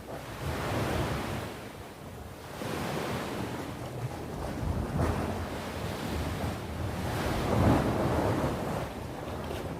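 Sea waves breaking and washing on the shore, the surf swelling and easing in several surges, the loudest about three-quarters of the way through.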